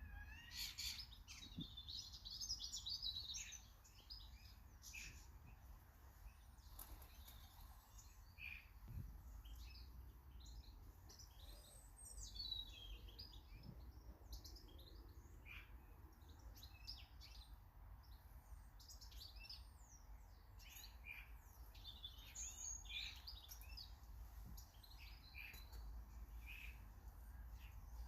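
Small garden birds chirping and calling: many short, high chirps throughout, some in quick runs, over a faint low rumble.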